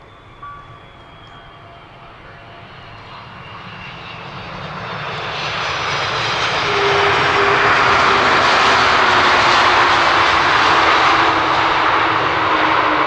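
Airbus A330-200 airliner's jet engines growing steadily louder over several seconds and then holding loud, with thin whines gliding slowly down in pitch as the aircraft comes close.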